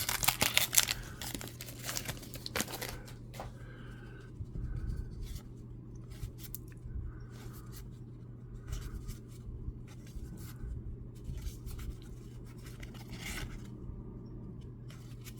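Baseball card pack wrapper crackling and tearing for the first few seconds, then quieter, scattered rustling and sliding as the cards are handled, over a steady low hum.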